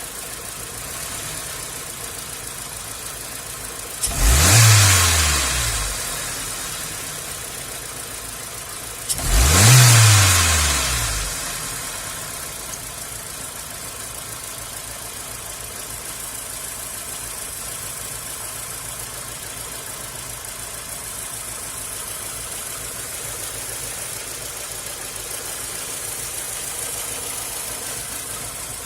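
Hyundai Accent's 1.3 L G4EA four-cylinder engine idling, an engine with a rough idle that is fine at cruising. It is revved briefly twice, the pitch rising and falling back to idle each time.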